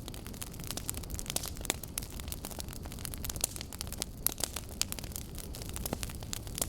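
Wood logs burning in an open fire, crackling with frequent sharp irregular pops over a steady low rumble.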